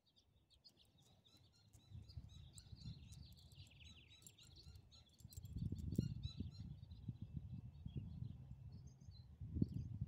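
Small birds chirping rapidly in the background, thinning out over the last few seconds, over a faint low rumble that swells twice.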